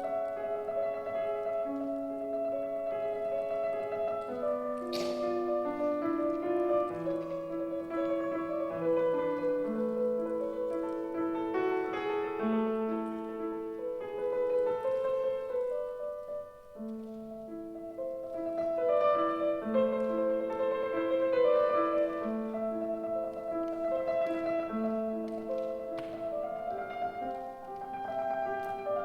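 Piano playing a slow classical piece: a melody over a repeating lower accompaniment, with a brief sharp noise about five seconds in.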